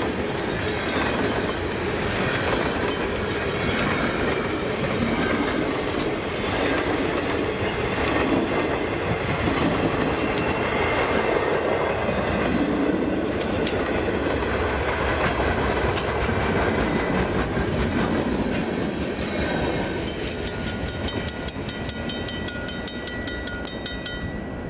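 Freight train rolling past, its wheels clacking steadily over the rail joints, growing somewhat quieter over the last few seconds.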